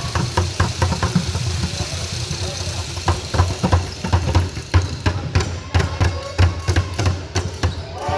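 Basketball game on a hard court: a ball thudding on the floor several times a second, with sharp knocks and voices echoing in a large hall.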